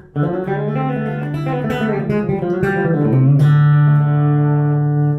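Guitar playing a fast chicken pickin' lick in the key of D, with hammer-ons, pull-offs and slides. The run of quick notes ends about three seconds in on a low note that rings on and then stops sharply.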